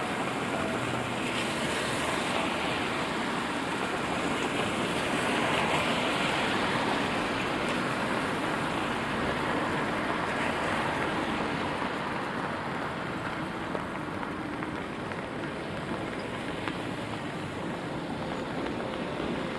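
Steady rain on a city street, with the hiss of car tyres passing on the wet road, swelling a few times and easing off slightly in the second half.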